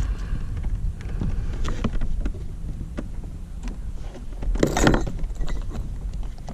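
Wind rumbling on the microphone, with scattered light knocks and clicks of handling on a kayak, and one louder rushing noise lasting about half a second a little past the middle.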